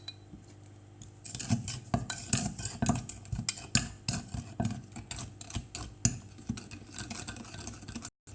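Utensils knocking and scraping in a mortar as papaya salad is pounded and mixed, with irregular thuds about two or three a second that start about a second in.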